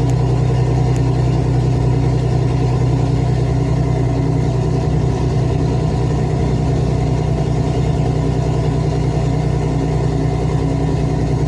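Engine of the vehicle being driven, running steadily at an even speed with a constant low drone.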